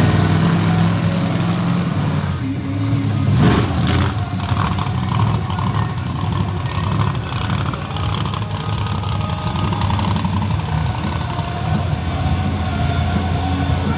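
Monster truck engine running loudly and steadily, with a brief louder burst about three and a half seconds in.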